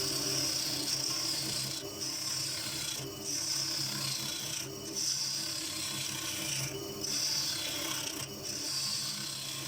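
Gouge cutting a spinning bird cherry blank on a wood lathe, with a steady lathe hum underneath. The cutting comes in repeated passes a second or two long, with brief breaks between them.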